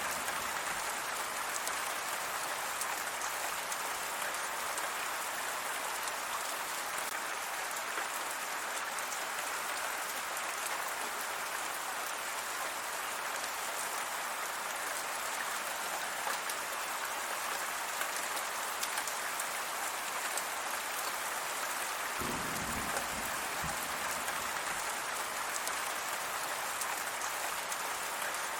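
Steady rain pattering on a surface, a dense even hiss of drops. About three-quarters of the way through, a brief low rumble rises under it.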